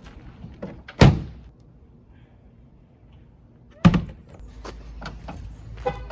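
A vehicle door slammed shut twice, about three seconds apart, each a sharp thud.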